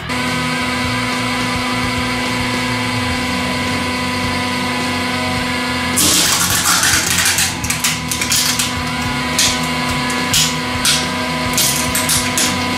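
Hydraulic press running with a steady, even hum. About halfway through, a liquid-filled plastic cup under the ram cracks loudly. A run of sharp plastic snaps and crackles follows as it is crushed flat.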